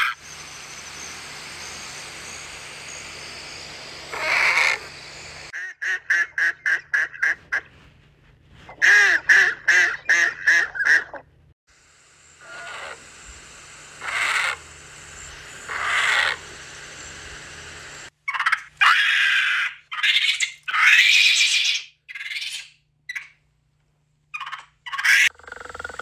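A run of bird calls from different clips in turn: a quick series of short calls, then longer calls, then sandhill cranes calling twice a couple of seconds apart, followed by a cluster of further loud calls.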